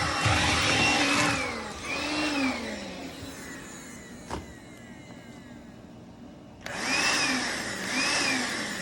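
Makita 18V cordless stick vacuum's motor running, its pitch swelling and dipping about once a second as the nozzle is worked over the floor. It fades away about three seconds in, a single click follows a second later, and the motor comes back abruptly near seven seconds.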